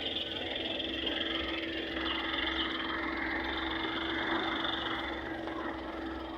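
A steady engine running, with a constant hum under a noisy wash that holds even throughout.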